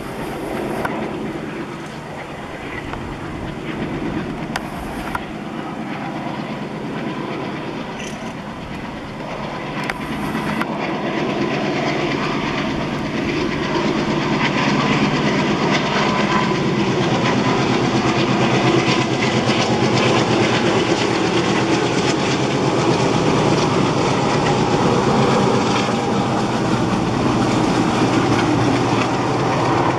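A passenger train hauled by twin ALCO diesel locomotives runs past. The diesel engines drone steadily under the clickety-clack of the coaches' wheels over the rail joints, growing louder from about 12 to 16 seconds in as the train draws closer, then holding.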